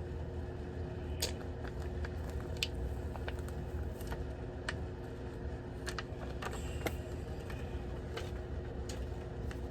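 Scattered light clicks and crackles of a plastic carrier sheet and iron-on vinyl being handled and peeled from a fabric mask, over a steady low hum.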